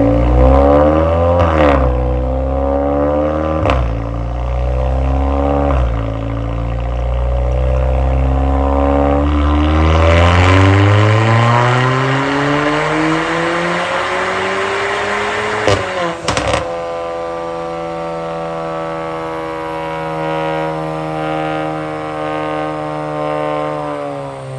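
Kia K3 GT's turbocharged 1.6 T-GDI four-cylinder with a chamber-type exhaust, accelerating hard through several quick upshifts, then a long full-throttle pull rising steadily in pitch. On lift-off a few sharp exhaust pops and bangs from the pop-and-bang map, after which the engine runs on at a steady lower note and drops near the end.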